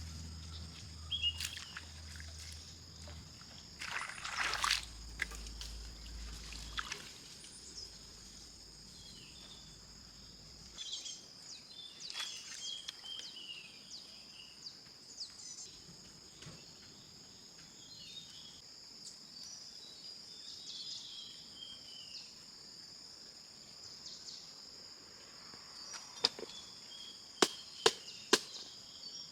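Outdoor ambience dominated by a steady, high insect drone, with short chirping calls now and then. A splashing, pouring water sound comes about four seconds in, and a few sharp knocks come near the end.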